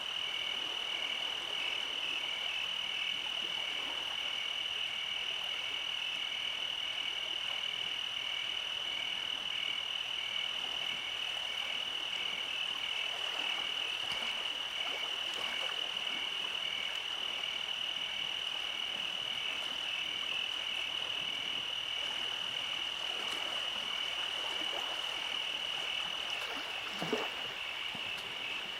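Night-time frog chorus: a steady high trill with a regularly pulsing call beneath it. A single brief, lower call sounds near the end.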